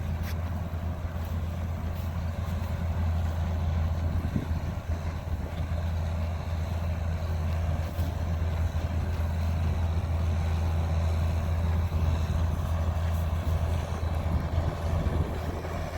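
A motor vehicle engine running steadily with a low, even drone.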